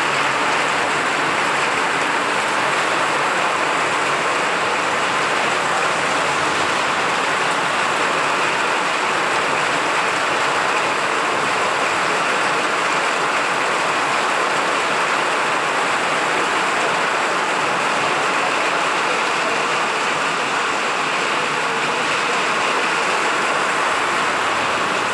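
Heavy rain pouring steadily onto a wet, flooded road, a constant even hiss with no let-up.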